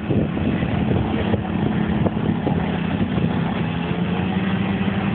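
Motorcycle engine running at a steady speed while riding, a steady hum under an even rushing noise.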